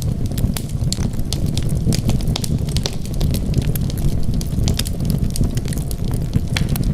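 Wood fire in a fireplace crackling steadily: a low, even rumble of burning with frequent sharp pops and snaps scattered irregularly, several a second.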